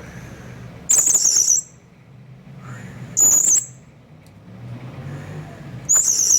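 Blue-crowned hanging parrot (serindit) giving three short, shrill, very high-pitched calls about two and a half seconds apart, each lasting about half a second.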